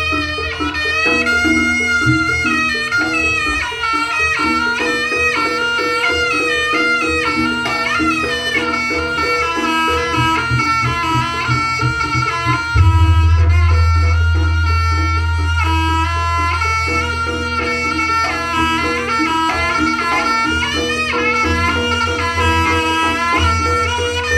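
Jaranan music: a slompret (Javanese reed shawm) playing a wavering, ornamented melody over a repeating gamelan pattern and deep drums. About halfway through the low drums and gong come in much louder.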